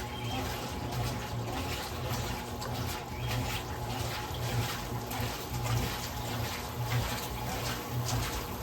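Electrolux LM08A top-loading washing machine agitating a load of towels. The dual-action agitator swishes the water back and forth in a steady rhythm of strokes, with the motor's low hum pulsing along with them.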